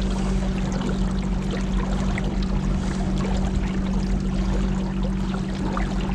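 Boat motor running at a steady cruising speed, a constant hum, with water rushing and splashing along the hull.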